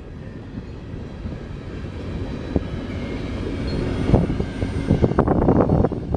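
Train rolling past with a steady low rumble and clatter of wheels, growing louder, with bursts of sharp clacking from about four seconds in.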